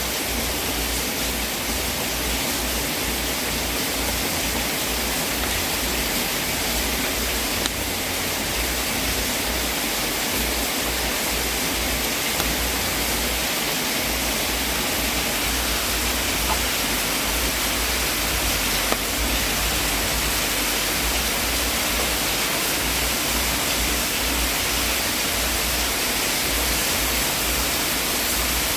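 Wood fire burning in a fireplace: a steady hissing rush with a few scattered soft pops and a low rumble underneath.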